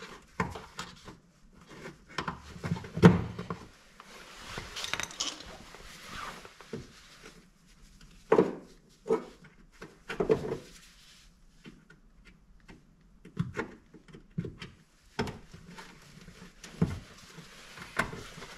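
Irregular clicks, knocks and rubbing as a car's plastic trim panel is worked loose and its plastic push clips are pried out.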